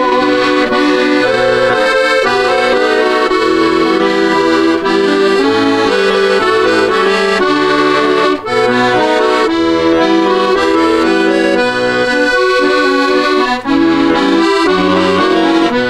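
Accordion playing an instrumental interlude of a Russian folk-style song: a melody over a steady rhythmic bass-and-chord accompaniment.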